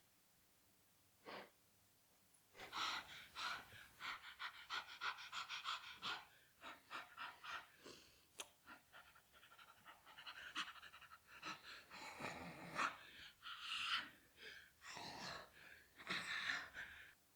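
Rapid panting: a single breath about a second in, then short breaths in quick succession that run on with brief pauses.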